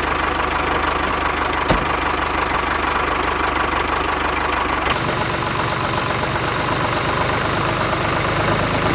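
A small motor running steadily with a fast, even pulsing, with a single click shortly after the start.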